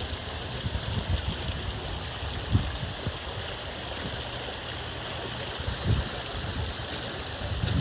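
Water from a three-urn stacked slate fountain splashing and trickling steadily as it bubbles up through the urns and spills over onto the stone below. A few soft low thumps are heard.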